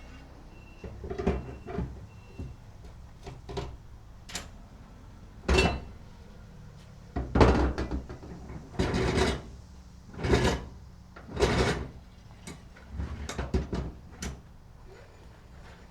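A run of about eight irregular knocks and bangs, the loudest around the middle, over a steady low engine hum.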